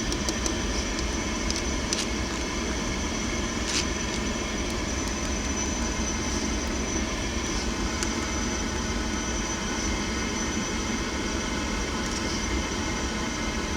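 Gas-fired pool heater running, a steady rush of its blower and burner at the exhaust vent, with a thin steady high whine and a few faint clicks in the first four seconds.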